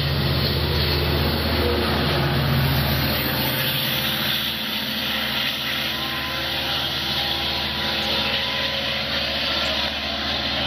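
DM30AC diesel locomotives of a Long Island Rail Road train running, a steady low engine drone over a constant rumbling wash of noise; the drone is strongest for the first four seconds or so and then eases.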